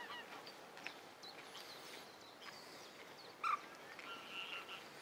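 Faint, scattered chirps and short calls of several wild birds, with one louder short call about three and a half seconds in.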